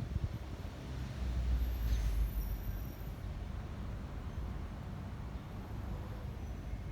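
Wind buffeting the microphone as a low rumble, swelling for about a second starting about a second and a half in, over faint outdoor hiss.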